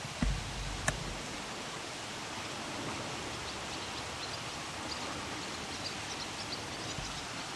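Steady rushing of river water, with a low bump near the start and a sharp click about a second in. Faint short high chirps come in the second half.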